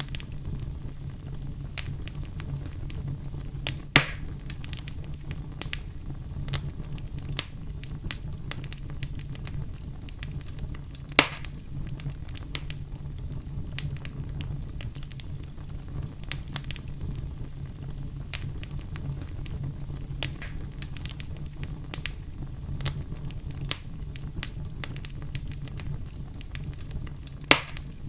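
Wood fire burning in a fireplace: a steady low rumble of flames under scattered small crackles, with three louder pops about 4, 11 and 27 seconds in.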